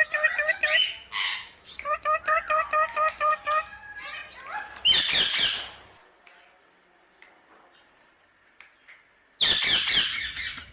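A parrot calling: a run of quick repeated chirping notes for the first few seconds, then a loud harsh squawk about five seconds in. After a quiet gap, another harsh squawk comes near the end.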